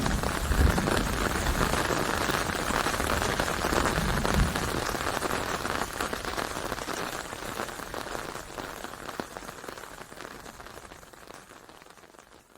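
Rain falling steadily, with a low rumble dying away in the first few seconds; the rain then fades out gradually, almost to nothing by the end.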